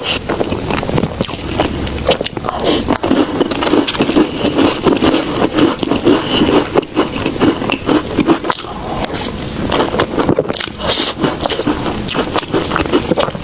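Close-miked chewing of soft desserts, with a dense run of small wet mouth clicks.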